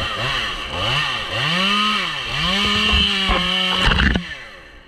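Two-stroke chainsaw revved in a series of quick throttle blips, then held at high speed for about a second and a half before dropping off sharply about four seconds in.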